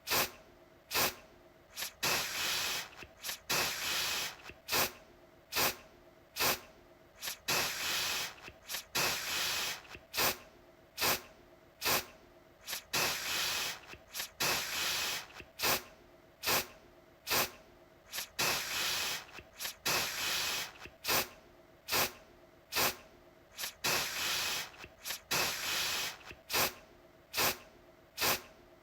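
Aerosol deodorant spray can sprayed in short repeated bursts, about one a second. Each burst starts sharply and dies away in a brief hiss.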